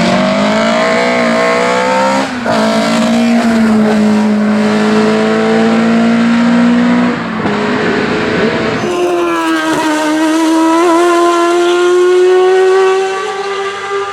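Race car engine running hard at high revs, its pitch held high and creeping slowly upward. The sound breaks off and jumps to a new pitch about two, seven and nine seconds in.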